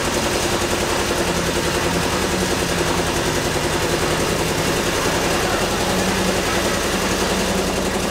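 A motor vehicle's engine running steadily, an even low hum with no change in pitch.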